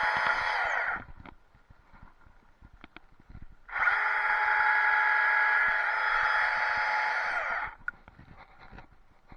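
Chainsaw running at speed with a steady high buzz, cutting off about a second in; a little under four seconds in it winds up again with a quick rise, runs steadily for about four seconds, then dies away, with light clicks and knocks in the quiet gaps between.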